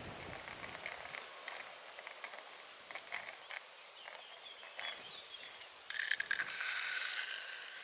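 Water dripping and spattering in small irregular ticks from a shower head fed by a borehole pump through a portable gas water heater. About six seconds in, a steady hiss of spraying water starts.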